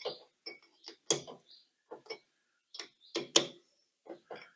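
Small metalworking lathe tapping a thread, with the tap held in its chuck: a string of irregular metallic clicks and clunks from the lathe's mechanism as the tap is worked into the hole.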